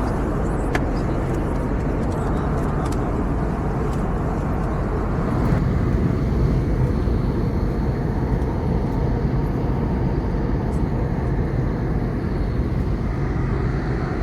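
Steady in-flight cabin noise of an Airbus A321neo: a constant low rush of engines and airflow, swelling slightly for a moment about six seconds in, with a few faint ticks near the start.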